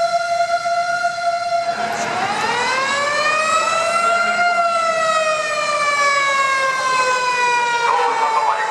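Emergency vehicle siren wailing. A held tone gives way about two seconds in to a new cycle that rises smoothly, peaks, and then falls slowly.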